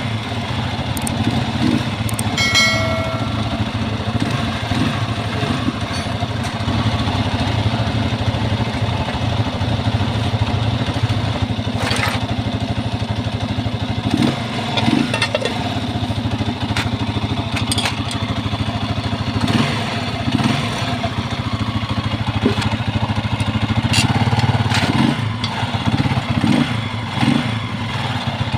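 Motorcycle engine idling steadily, with scattered sharp clicks and knocks over it, and a brief high tone about two and a half seconds in.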